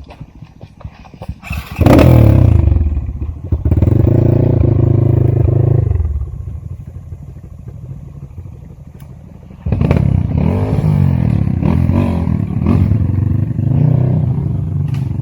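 Trail motorcycle engine revving hard in bursts. It jumps up sharply about two seconds in and holds until about six seconds, drops to a lower run, then revs up again from about ten seconds with the pitch rising and falling.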